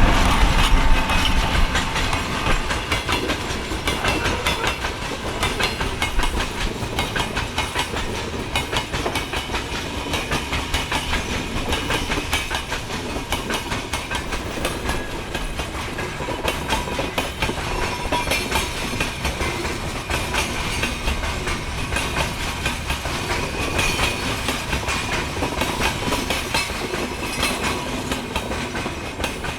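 Train passing on the line, its wheels clattering over the rail joints in a steady run of rapid clicks, loudest in the first second or so.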